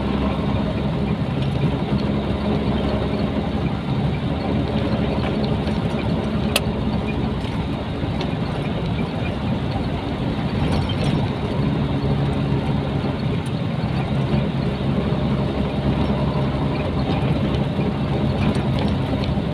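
Nissan Diesel container truck's diesel engine running steadily as the truck drives on, a constant low drone.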